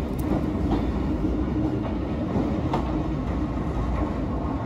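Euskotren 900-series electric multiple unit moving out along the platform, a steady rumble of wheels on rail with a few faint clicks.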